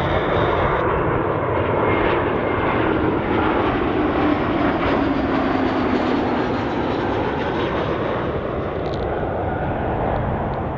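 Jet airliner passing low on landing approach: a loud, steady rush of engine noise, with a tone that falls in pitch as the aircraft goes by.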